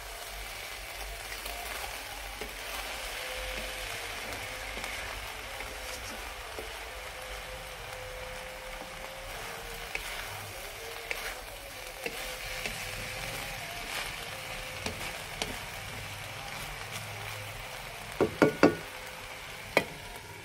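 Zarda sweet rice with melting sugar sizzling steadily in an iron kadhai while a wooden spatula stirs it, with a few light taps. Near the end come several sharp clinks as a glass lid is set on the pan.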